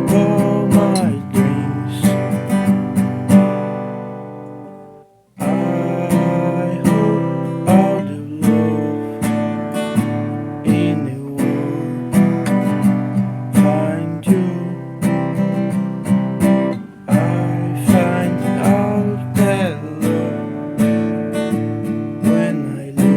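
Acoustic guitar strumming chords in a folk song. About four seconds in, one chord is left to ring and fade almost to silence, then the strumming starts up again.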